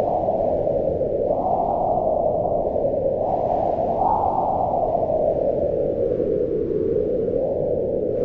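Howling mountain wind: a steady low rushing whose pitch swells up about a second in and again around four seconds in, then slowly sinks back.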